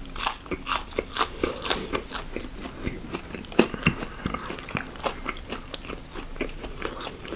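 Close-miked chewing of crispy fried fast food: a steady run of crisp crunches and bites, several a second.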